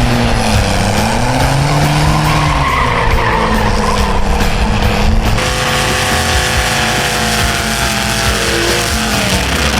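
Diesel truck doing a burnout: the engine revs up and down several times over a steady hiss of spinning tyres.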